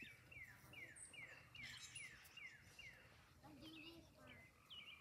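A songbird singing faintly: a quick run of about eight short falling notes, evenly spaced, over the first three seconds, with other brief chirps before and after.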